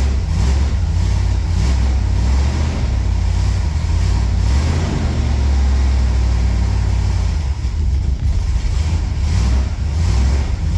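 355 cubic-inch V8 with a freshly rebuilt Holley 750 double pumper carburettor running on its first start after the rebuild, with a low, steady exhaust note.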